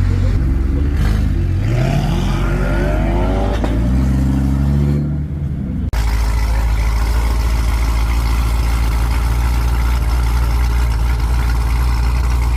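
Chevrolet Corvette V8 engine revving, its pitch climbing in the first few seconds. After a brief dip about five seconds in, it settles into a steady low rumble.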